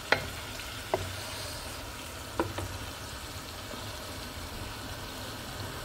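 Marinated chicken strips and onions sizzling in oil in a non-stick pan, while a wooden spatula stirs them and knocks sharply against the pan three times in the first few seconds.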